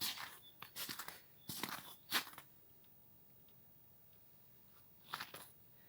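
A few faint crunching, rustling sounds over the first two seconds and once more near the end, with a couple of faint bird chirps.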